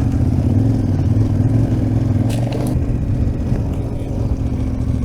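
Big adventure motorcycle's twin-cylinder engine running steadily under way, easing off and dropping in pitch about three seconds in.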